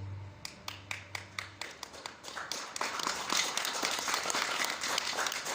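Audience applauding: a few scattered claps that swell into full, dense applause about two and a half seconds in.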